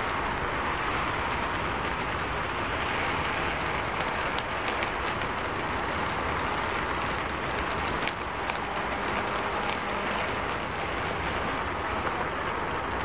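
Heavy rain falling on a city street, a steady hiss mixed with the wash of traffic tyres on the wet road, with scattered sharper drop ticks.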